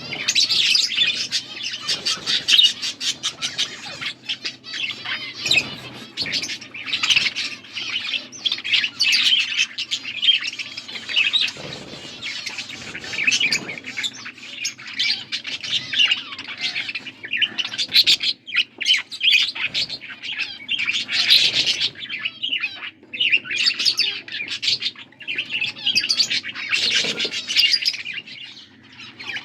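Budgerigars chirping and chattering nonstop in a dense, fast warble.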